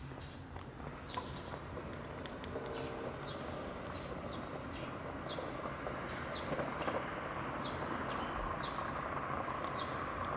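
Small birds chirping over and over in short falling calls, over a steady rushing noise that grows louder toward the end.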